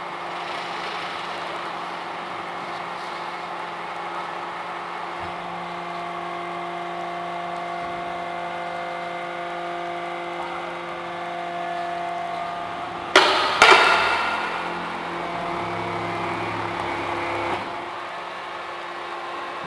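ENERPAT VB 63 vertical cardboard baler running: a steady hum from its motor and hydraulic pump, with two loud metallic clanks half a second apart about thirteen seconds in. A deeper, heavier running sound follows for a few seconds before the hum settles back.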